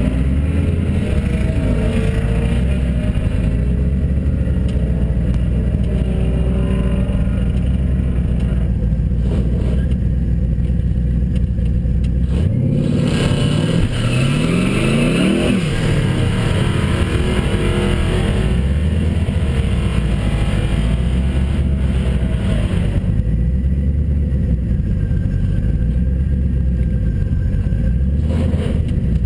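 Twin-turbocharged Fox-body Ford Mustang's engine idling with a steady, pulsing low rumble, heard from inside the cabin. About halfway through, the pitch climbs and falls once.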